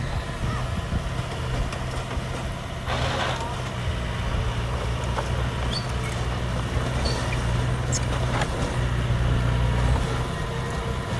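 Heavy diesel earthmoving machinery running steadily at a work site, a low even engine drone, with a brief hiss about three seconds in.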